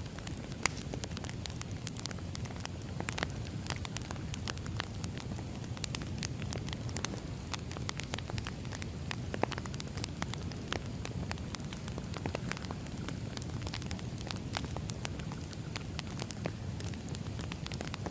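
Wood fire crackling: irregular sharp snaps and pops over a steady low rumble of burning logs.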